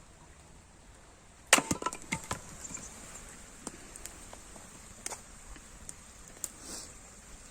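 Sharp cracks and knocks of wood: a quick cluster of loud ones about a second and a half in, then single ones spaced out over the next few seconds.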